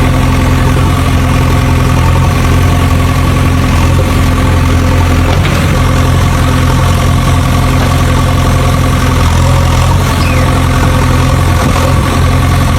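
A vehicle engine idling steadily at a constant speed, with no revving.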